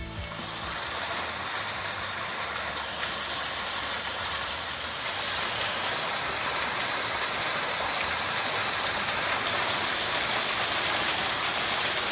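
Waterfall running close by: a loud, steady rush of falling water, a little louder from about halfway through.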